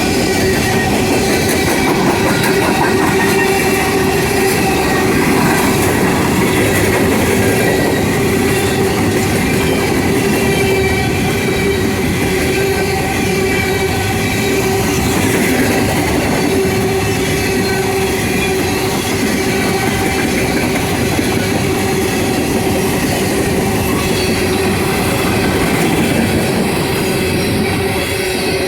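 Norfolk Southern coal train rolling past a crossing: its cars rumble and clatter steadily over the rails, with a continuous whining tone from the wheels on top.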